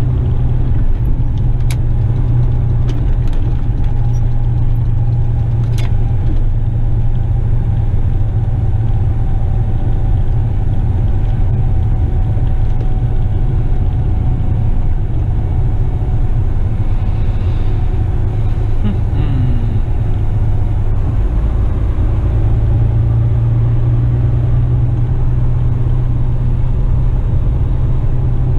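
Western Star tipper truck's diesel engine running steadily with road noise, heard from inside the cab: a loud, even low drone.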